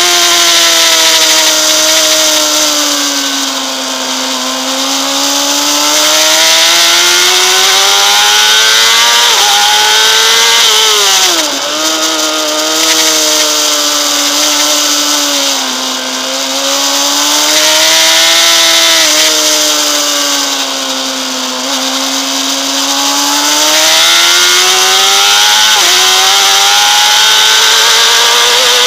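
Honda CBR600RR's inline-four engine screaming at high revs, its pitch climbing under acceleration and sagging off again every few seconds, with sudden sharp drops at gear changes, the clearest about eleven seconds in and near the end. Steady wind rush sits under it.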